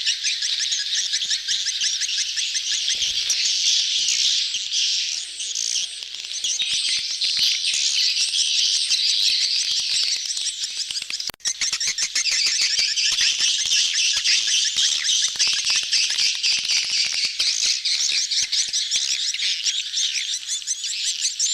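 Edible-nest swiftlets twittering as a crowded colony, many birds chirping in rapid overlapping trills. This is the courtship colony chorus used as a lure call for swiftlet houses. It breaks off for a moment about eleven seconds in.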